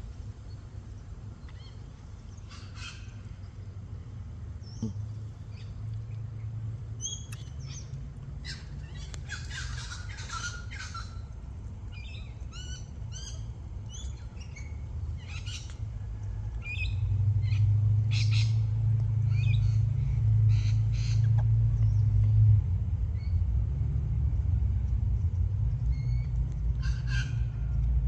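Rosellas calling in short chirps and squawks, scattered through and busiest about a third of the way in, over a low rumble that grows louder a little past the middle.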